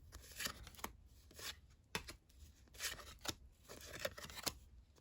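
Trading cards being flipped through by hand: card stock sliding across card, with short swishes and crisp flicks about two a second.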